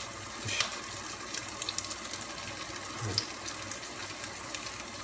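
A vegetable patty shallow-frying in hot oil in a pan: a steady sizzle with scattered small crackles.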